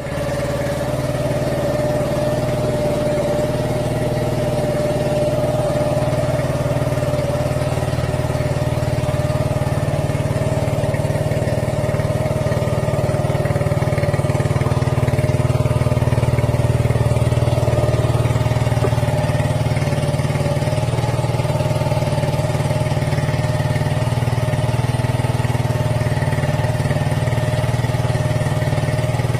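Honda GL100's single-cylinder four-stroke engine idling steadily as it warms up.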